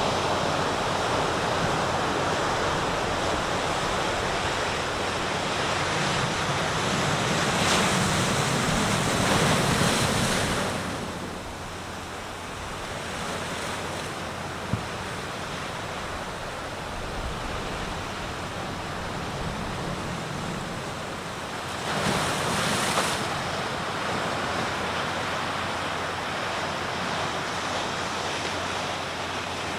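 Sea waves breaking on the shore in a continuous wash of surf. A bigger wave builds and crashes about eight seconds in and falls away around eleven seconds, and another breaks about twenty-two seconds in.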